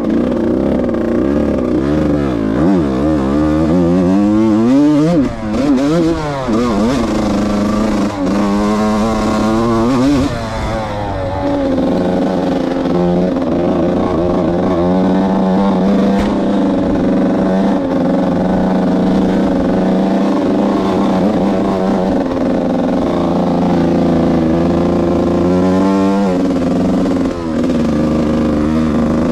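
Yamaha YZ125 two-stroke single-cylinder dirt bike engine being ridden, revving up and down repeatedly for the first ten seconds or so, then held at a steadier pitch, with another quick rise and fall near the end.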